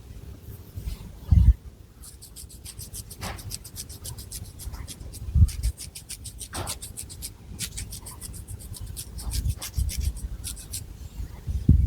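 Long fingernails scratching through long, thick hair and across the scalp in a fast run of short, crisp strokes, with a few dull low thumps in between.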